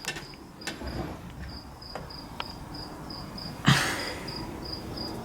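Steady insect chirping, a high pulsing note about three times a second, with a few light clicks and one louder clattering knock about two-thirds of the way in.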